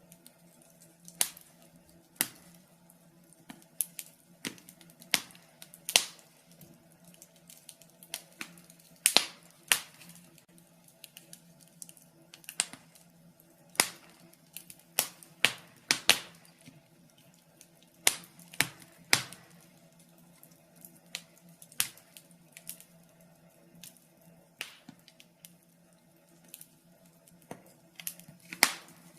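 Wood fire burning in a fireplace, crackling with sharp irregular pops of varying loudness over a faint steady hum.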